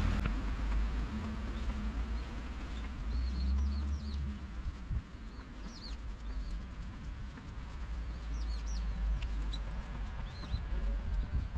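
Small birds chirping in short, high calls scattered through, over a steady low rumble.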